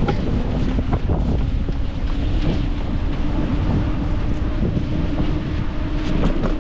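Wind buffeting the microphone of a camera on a moving bicycle: a steady low rumble, with a faint even hum underneath.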